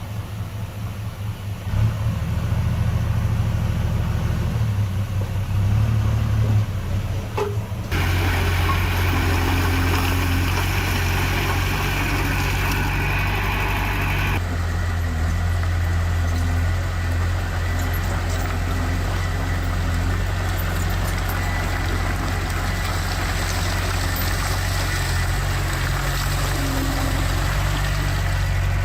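Heavy diesel engines of construction machinery running steadily, with a low hum. The sound changes abruptly about 8 seconds in and again near 14 seconds, as one engine sound gives way to another.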